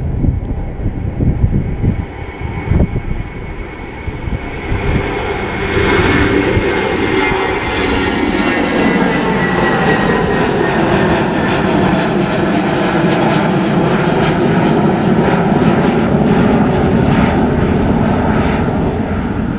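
Wind buffeting the microphone, then about five seconds in a fixed-wing aircraft's engines grow loud and hold steady, with a whine that slowly falls in pitch.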